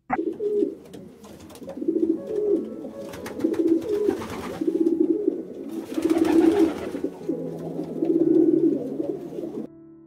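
A bird calling in a series of low notes, given in short phrases about once a second, with faint clicks behind; it cuts off abruptly near the end.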